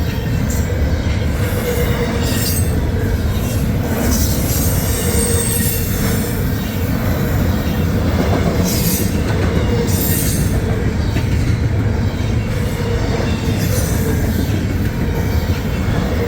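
Double-stack intermodal freight cars rolling past at speed: a steady, loud rumble of steel wheels on rail.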